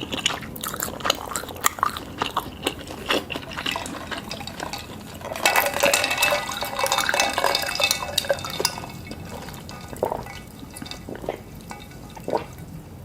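Close-miked wet eating sounds of raw oysters and shrimp: scattered lip smacks and clicks, and from about five to nine seconds in a dense, gurgling slurp of liquid.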